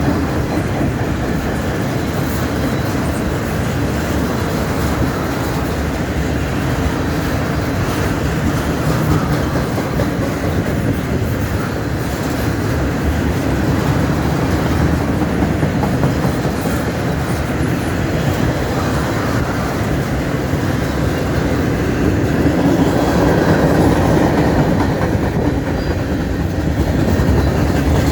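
Canadian National freight train's cars rolling past on the rails, a steady rumble that swells a little near the end.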